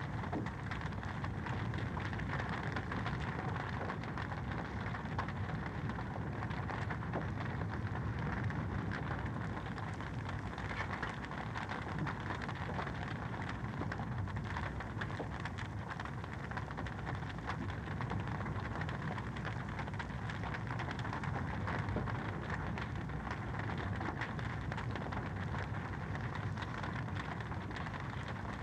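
Fire crackling in a fireplace: a steady low rush dotted with many small pops and snaps.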